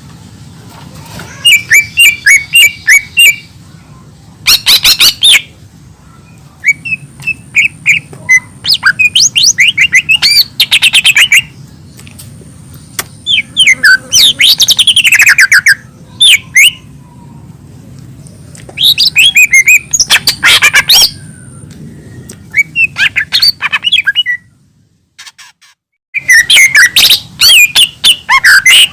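Cucak ijo mini leafbird singing in full song, in loud bursts of rapid chirps, trills and sweeping whistles with short pauses between phrases. The song breaks off briefly a little before the end, then resumes.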